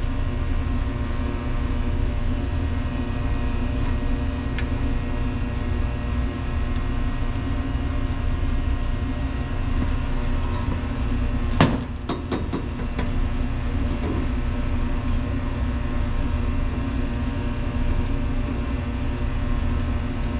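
A steady mechanical hum with several fixed tones. About halfway through comes one sharp, loud knock, followed by a few lighter clicks.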